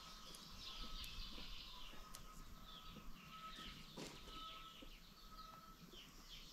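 Faint chirping of birds around a chicken farm: many short, high chirps overlapping one another, over a low outdoor hiss, with a thin steady tone that comes and goes and a single click about four seconds in.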